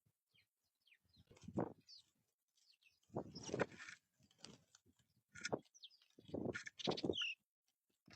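Small wild songbirds chirping at a backyard feeder: short, high, falling chirps. Several louder bursts of noise stand out, about three, five and a half, and six and a half to seven seconds in.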